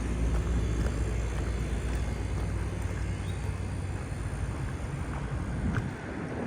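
Airplane passing overhead: a low, steady rumble that slowly fades.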